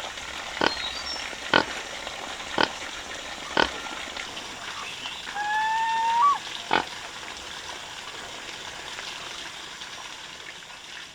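Pigs: sharp knocks about once a second for the first few seconds, then a piglet's rising squeal about halfway through, followed by one more knock.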